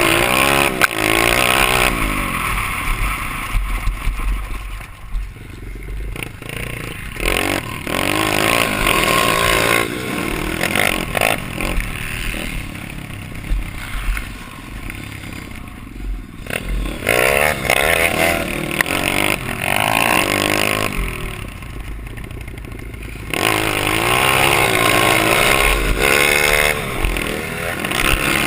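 Dirt bike engine revving up and down over and over, easing off into quieter spells several times between bursts of throttle.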